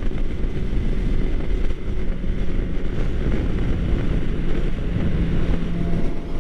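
Wind rushing over the microphone of a 2013 Suzuki GSX-R600 inline-four sport bike underway, with its engine running steadily underneath.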